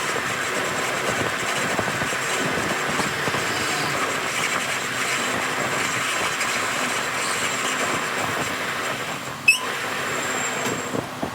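Steady mechanical running noise with a hiss, broken by a single sharp click about nine and a half seconds in.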